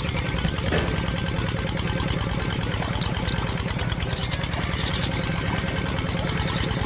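Engine idling steadily with a fast, even low pulse. A quick pair of high falling chirps comes about three seconds in, and short high chirps repeat in the second half.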